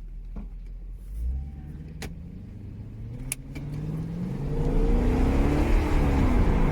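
Audi 4.2-litre V8 accelerating under load. The engine note rises from a low hum about a second in and grows much louder from about halfway through, with a few sharp clicks in the first few seconds.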